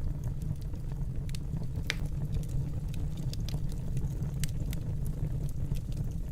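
Fire burning in a fireplace: a steady low rumble of flames with scattered crackles and pops, the sharpest about two seconds in.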